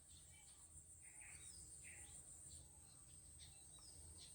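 Near silence: faint outdoor background with a few short, distant bird chirps and a steady high-pitched tone.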